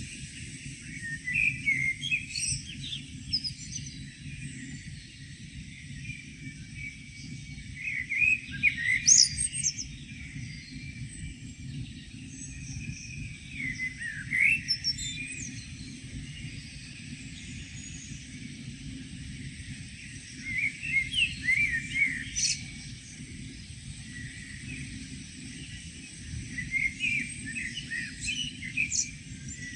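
Songbirds singing in short chirping phrases, one every five or six seconds, over a steady low rumble.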